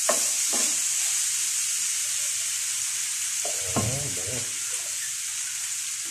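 Minced pork sisig sizzling steadily in butter in a nonstick frying pan, with a couple of quick spatula scrapes at the start and a soft low knock about four seconds in.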